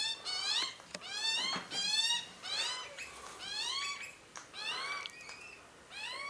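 Birds at a feeding spot giving a rapid run of short, rising-and-falling calls, about two a second.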